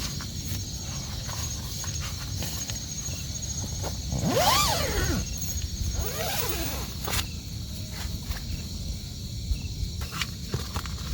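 Steady rain ambience with scattered drip-like ticks and a constant high insect drone. About four seconds in comes a loud squeal that rises and then falls, and a second, fainter one follows about two seconds later.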